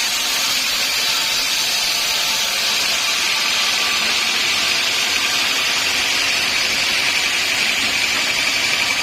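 Sawmill saw running steadily, a loud high hiss with a thin whine that grows stronger in the second half.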